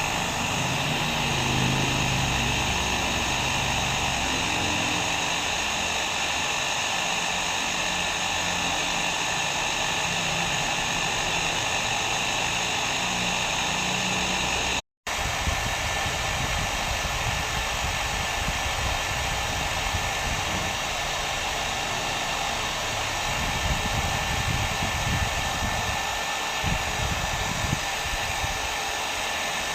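Electric hair dryer running continuously: a steady rushing blow with a constant motor whine. It cuts out for a split second about halfway, then resumes.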